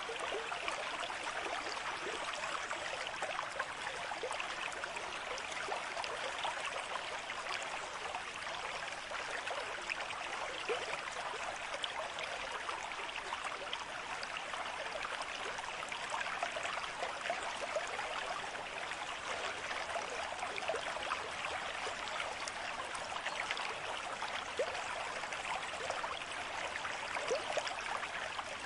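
Running water, like a small stream babbling steadily, with many small quick splashes and gurgles throughout.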